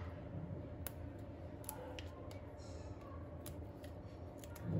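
A handful of light, sharp clicks and taps from hands handling kitchen things, with a brief rustle near the middle, over a low steady hum.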